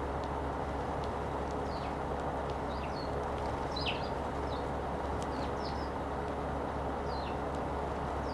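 Eurasian tree sparrows chirping: scattered short, high chirps, about a dozen in all, over a steady low background hum.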